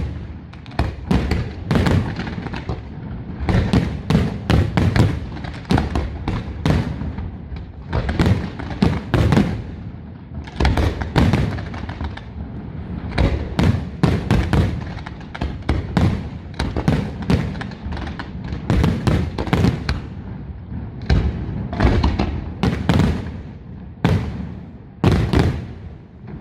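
Aerial fireworks display: a continuous barrage of shell bursts and booms, many bangs in quick irregular clusters with deep rumbling tails.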